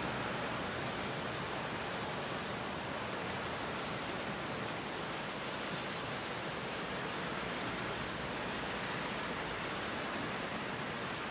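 Heavy rain falling steadily on trees and a wet dirt road, an even hiss that doesn't change.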